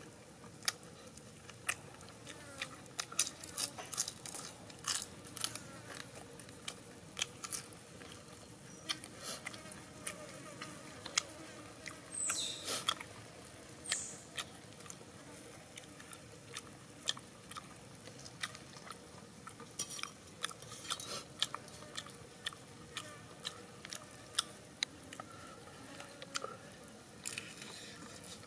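Close-up mouth noises of a person eating roasted tire track eel: wet chewing, lip smacks and sharp crunchy clicks, irregular throughout. Two brief falling swishes come a little before halfway.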